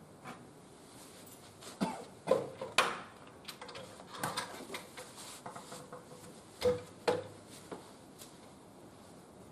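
Wood fire in a barbecue grill: scattered crackles and knocks, the loudest clustered about two to three seconds in and again about seven seconds in.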